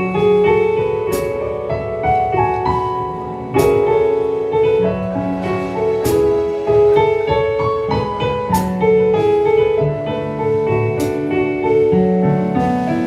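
Keyboard playing held gospel chords in an instrumental passage. A sharp hit lands about every two and a half seconds.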